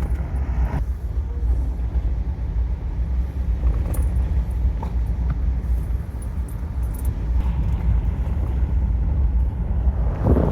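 Full-size pickup truck driving over a rough, bumpy road, heard from inside the cab: a steady low rumble of engine and tyres, with a few small rattles and knocks.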